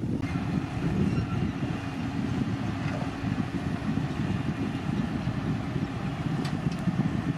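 Heavy diesel earthmoving machinery running, a steady low engine rumble, with a couple of faint clicks late on.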